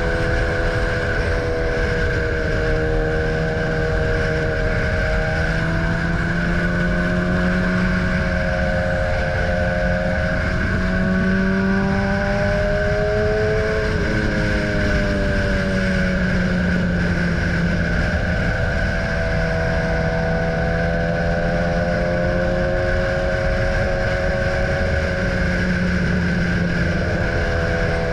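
BMW S1000R inline-four motorcycle engine running under way, its pitch rising and falling gently as the throttle changes, over steady wind and road noise.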